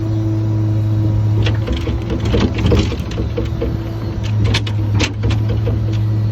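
Ford bucket truck's engine running at raised idle with the PTO engaged to drive the boom hydraulics, a steady hum as the lower boom rises. From about a second and a half in to about five and a half seconds there is a run of creaks and clicks, including a regular tick about four times a second.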